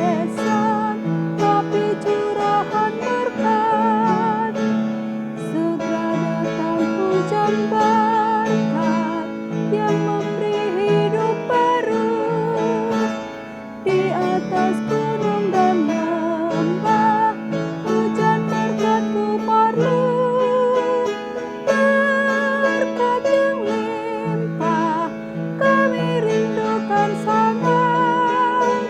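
A woman singing a hymn with a wide vibrato to piano accompaniment, in long phrases with short breaks between them.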